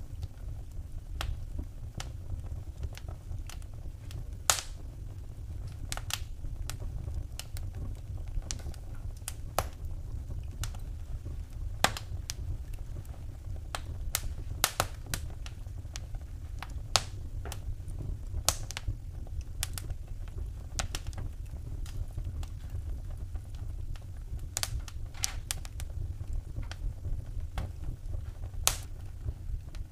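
Wood fire in a fireplace crackling: irregular sharp pops and snaps, a few of them louder, over a steady low rumble.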